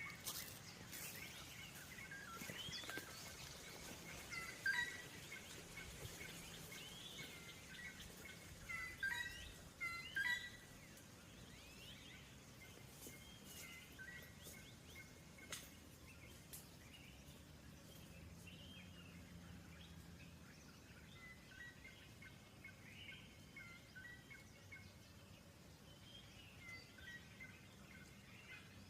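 Birds chirping and calling in a forest: many short calls at first, thinning out to fainter, scattered calls after about ten seconds, over a quiet outdoor background.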